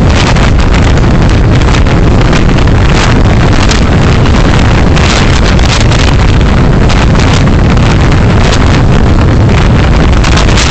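Dashcam recording of a car driving: loud, steady road and wind noise with frequent short crackles throughout.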